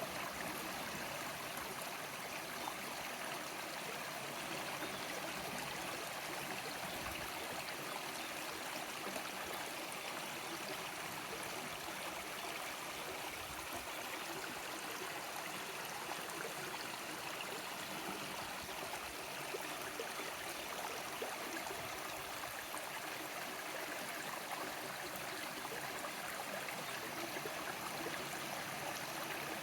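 A small river flowing over stones: a steady rushing and babbling of water, even throughout.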